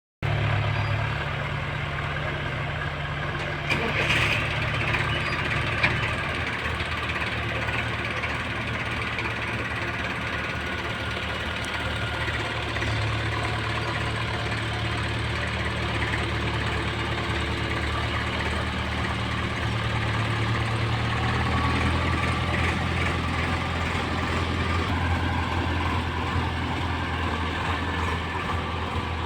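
Diesel tractor engine running steadily, its speed shifting up and down a little, with a brief hiss about four seconds in and a sharp click soon after.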